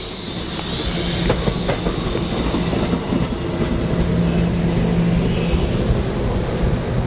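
MBTA commuter rail train of bilevel coaches rolling past at close range, ending with its cab car. The wheels make a steady rumble with a low hum, and several sharp clicks come in the first few seconds.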